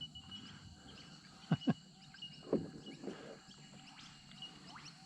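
Faint birds chirping and calling in the background, with a few short, louder sounds about one and a half and two and a half seconds in.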